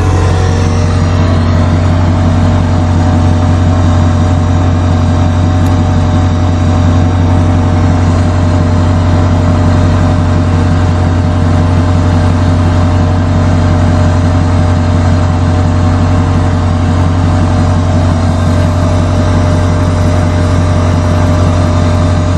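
A vehicle engine running steadily, a loud even low drone that holds the same pitch throughout.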